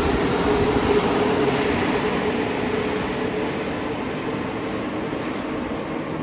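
Santiago Metro NS-07 rubber-tyred train running, a steady rumble and hiss with a faint steady hum, gradually fading and losing its high end.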